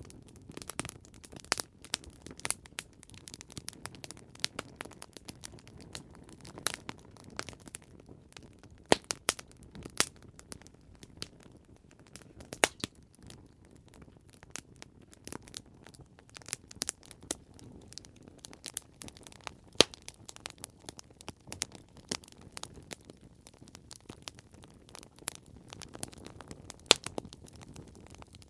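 Campfire crackling: irregular sharp pops and snaps of burning wood over a low, steady hiss.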